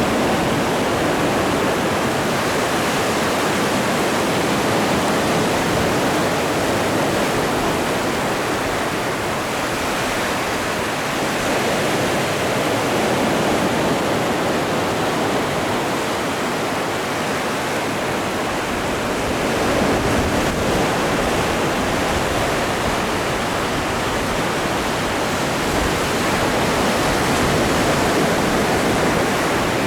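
Ocean waves breaking and washing on the shore as a continuous rush of surf, swelling and easing gently.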